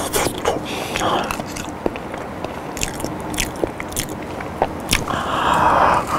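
Close-miked chewing of soft boiled potato: wet mouth clicks and smacks through a lapel microphone, and a fresh bite near the end. A louder breathy noise comes about five seconds in.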